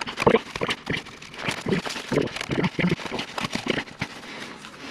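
Irregular knocks and cracks, a few a second, as a hardened muffler repair wrap is broken and torn off the exhaust by hand: the patch has failed to set hard.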